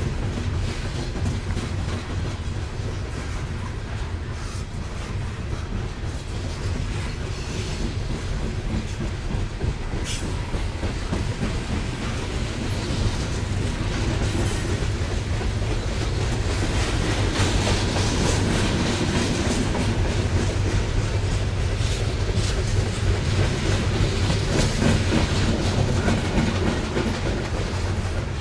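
Loaded coal hopper cars of a freight train rolling past: a steady low rumble with wheels clacking repeatedly over the rails, growing a little louder in the second half.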